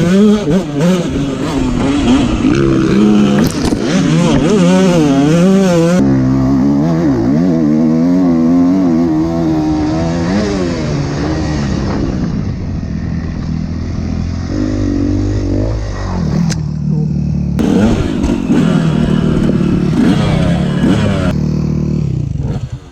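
Motocross dirt bike engine revving up and falling off again and again as it is ridden around the track. The sound changes abruptly a few times, as between separate shots.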